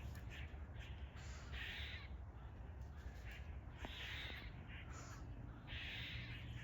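Squirrels barking alarm calls: repeated raspy barks, roughly one a second and irregular, a sign that they sense a threat nearby.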